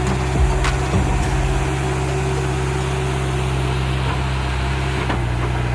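Heavy vehicle engine running steadily at low speed, with a few short knocks in the first second.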